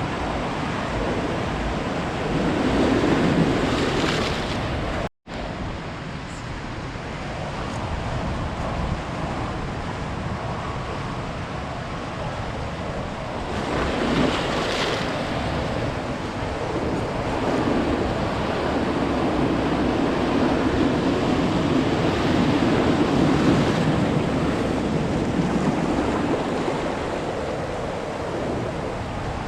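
Ocean surf: waves breaking and washing up the beach in a continuous rush, swelling louder about three seconds in, again around fourteen seconds, and for several seconds past the twenty-second mark, with some wind on the microphone. The sound cuts out for an instant about five seconds in.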